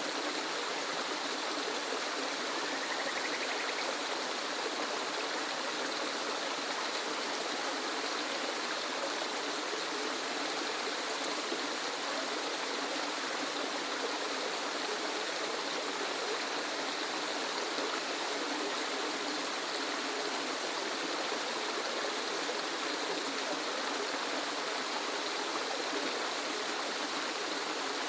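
Waterfall, a steady rushing hiss of falling water that stays even throughout, with little deep rumble.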